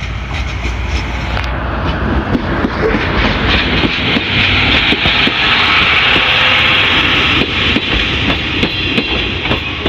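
DE10 diesel-hydraulic locomotive passing close by, followed by passenger coaches rolling past with a regular clickety-clack of wheels over rail joints. A hiss of wheels on the rails grows from about three seconds in and stays loud.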